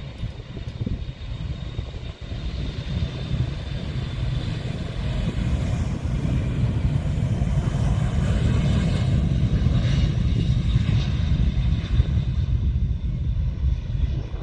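Engine noise of a departing fixed-wing aircraft, a deep rumble with a faint high whine, growing louder over the first few seconds and staying loud, easing a little near the end.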